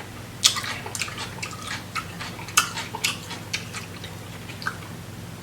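Close-up eating of a seafood boil: irregular sharp clicks and cracks of shellfish shells being broken and handled, a few seconds apart, with a faint steady hum underneath.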